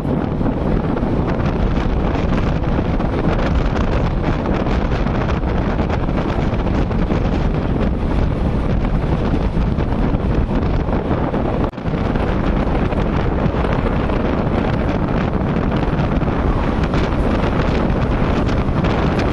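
Wind buffeting the microphone over the steady rush and rumble of a fast-moving train, with one brief dropout about twelve seconds in.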